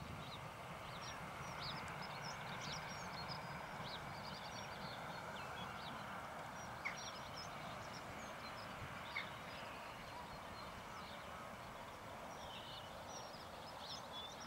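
Birds chirping and calling again and again in short high notes over a faint steady rushing background, with two small clicks in the middle.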